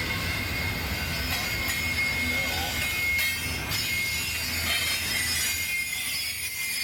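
Passing train rolling by, its wheels giving a steady high squeal over a low rumble, with a few sharp clicks of wheels crossing rail joints.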